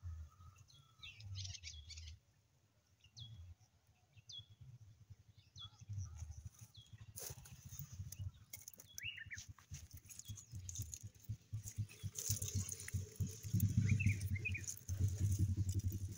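Small birds chirping now and then, short high calls, over a low rumble and rustling that grow louder in the last few seconds.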